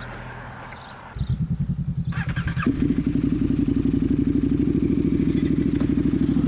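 Motorcycle engine running with an even, rapid pulse; it comes in suddenly about a second in and grows louder a moment later, with a short clattering rush of noise just before it steadies.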